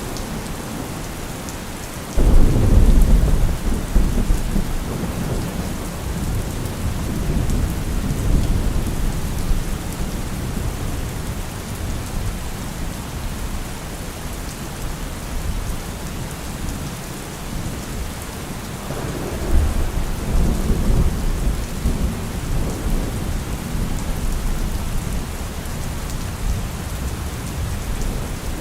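Steady heavy rain with rolling thunder. A low rumble of thunder breaks in suddenly about two seconds in and fades over several seconds, and a second rumble rolls through about two-thirds of the way along.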